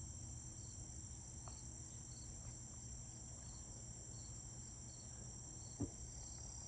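Faint, steady high-pitched drone of insects, with a soft chirp repeating about every 0.7 seconds. A single light knock comes near the end.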